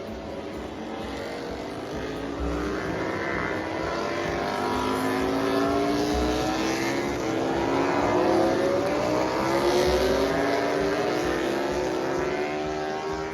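Several racing motorcycles passing at speed, their high engine notes overlapping and sweeping up and down in pitch as they go by, loudest past the middle. A short low thump recurs about every four seconds underneath.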